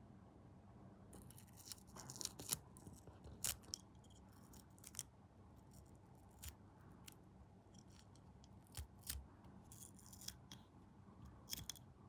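Irregular sharp snips and clicks of small hand tools on the plastic parts of a scale model kit, a few quick ones close together around two seconds in and again near the end.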